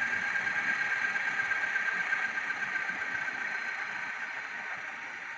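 Sound decoder of an N gauge Class 47 model diesel locomotive playing the engine shut-down, heard through the model's small onboard speaker: the diesel running sound winds down and fades away steadily.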